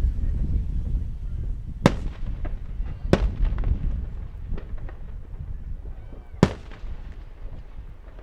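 Fireworks display: three sharp bangs of shells bursting, about two, three and six and a half seconds in, with smaller crackles between them over a low rumble.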